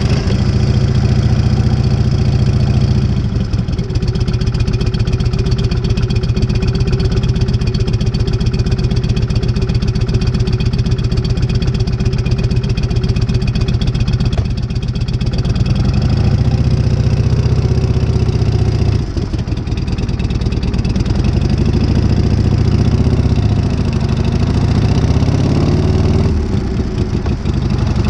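1978 Harley-Davidson Shovelhead V-twin, fitted with a new S&S carburettor, idling with its loping beat; past the halfway point the throttle is blipped a little, the pitch rising and falling, with a brief dip.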